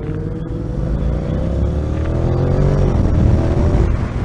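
Motorcycle engine pulling at low speed, its pitch rising slowly for about three seconds, then dropping as the throttle eases off, over a steady low rumble.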